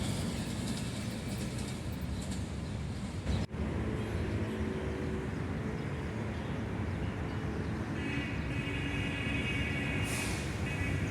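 A train running along the track with a steady rumble. The sound cuts out briefly about a third of the way in, and faint high steady tones ring over the last few seconds.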